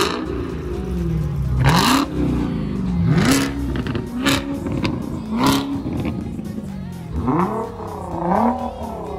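High-performance car engines revved again and again in short blips from idle. The pitch sweeps up and falls back about every second and a half, with several sharp cracks on the revs in the first half.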